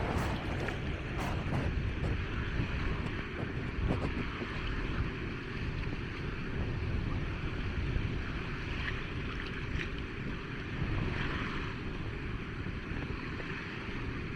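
Wind buffeting the microphone over the steady wash of small waves breaking on a sandy beach, with a few faint clicks.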